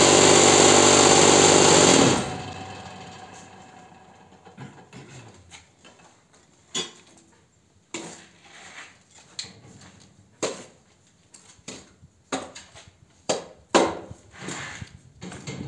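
Cinder-block machine's lower vibrator running for about two seconds, a loud dense rattling buzz that shakes the filled mould to settle the mix, then winding down. After that come scattered short knocks and scrapes.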